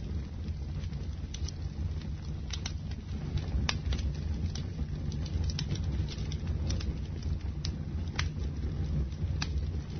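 Wood bonfire burning: a steady low rumble of flames with sharp crackles and pops at irregular moments, the strongest about four and eight seconds in.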